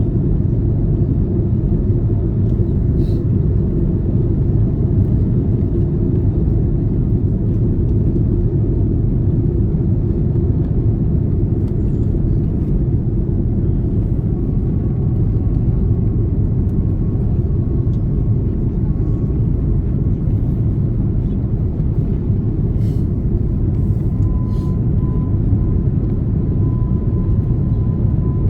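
Steady low roar of engines and airflow heard inside the cabin of an Airbus A330 airliner, with a faint steady whine joining about halfway through.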